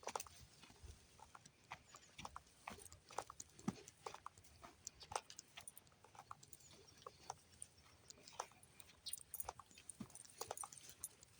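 Faint, irregular light taps and clicks, a few a second: footsteps of a person and dogs walking.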